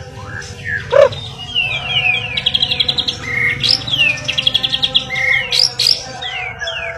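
White-rumped shama (murai batu) singing: quick down-slurred whistles, often two or three in a row, broken by rapid rattling trills about two and a half and four and a half seconds in. A low steady hum runs underneath.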